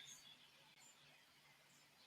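Near silence in a pause between bird calls, with the last of a call dying away in the first moment.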